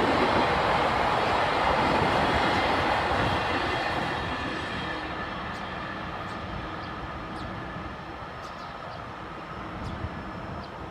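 Train running across a railway bridge, a loud rumbling rush that fades steadily over the first half as it moves away, with a few faint clicks after.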